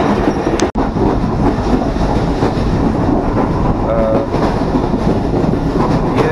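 Subak Raftar passenger train running at speed, heard from an open window: the steady rumble of wheels on the rails, broken by a brief sharp dropout about a second in.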